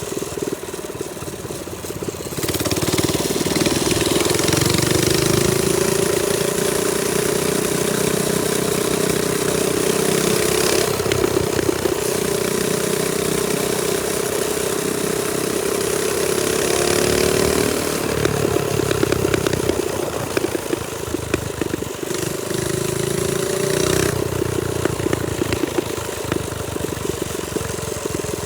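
Trailmaster Storm 200 minibike's single-cylinder four-stroke engine running while riding. It revs up about two seconds in and holds steady for a long stretch, then eases off a little past the middle and picks up again briefly near the end.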